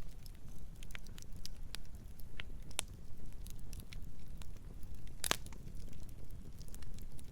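Campfire crackling: scattered wood snaps and pops over a low steady rumble, with one louder pop about five seconds in.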